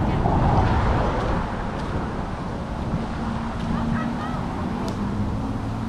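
Strong wind buffeting the action camera's microphone, mixed with street traffic; a steady low hum joins about three seconds in.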